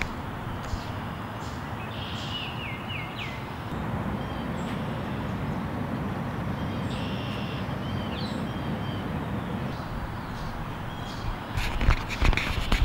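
Small birds calling in a few short notes that fall in pitch, over a steady background hiss of outdoor noise. Near the end comes a louder burst of knocks and rustles.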